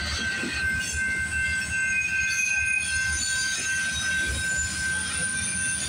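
Freight train's centerbeam lumber flatcars rolling steadily past, with a low rumble and a steady high-pitched squeal from the wheels.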